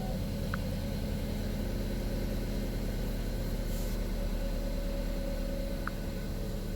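2012 Buick Verano's 2.4-litre four-cylinder engine idling steadily, with new intake and exhaust camshaft actuator solenoids fitted: it sounds smooth. Two short faint beeps, about five seconds apart.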